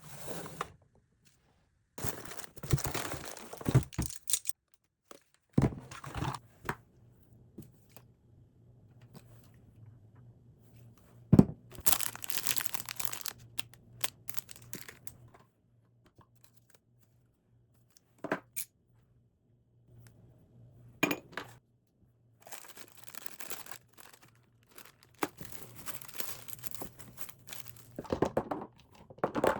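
Things being handled and sorted by hand: three longer stretches of rustling and crinkling, like paper or plastic packaging, with several sharp single knocks in between. A faint steady low hum runs underneath through the middle.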